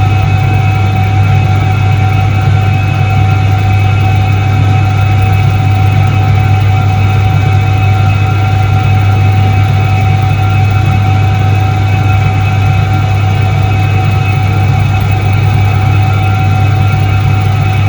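Soviet Iset-3 washing machine from 1978 running: a loud, steady motor hum with a deep low drone and a few constant higher tones, unchanging throughout.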